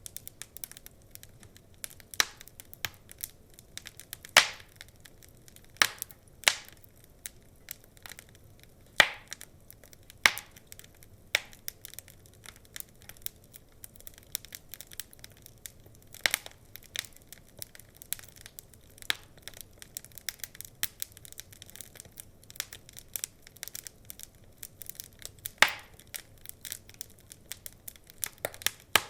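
Wood fire crackling: irregular sharp pops and snaps over a faint low hiss, with a few louder pops spaced several seconds apart.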